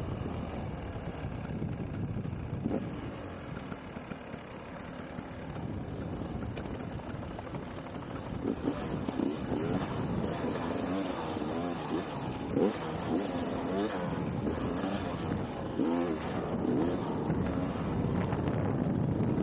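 Dirt bike engine running. From about halfway through, it revs up and down over and over.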